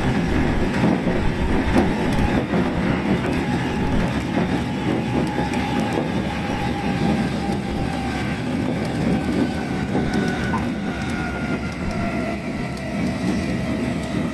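Tokaido Line electric train running at speed, heard inside the car: a steady rumble of wheels on the track, with faint high tones in the second half that drift slightly in pitch.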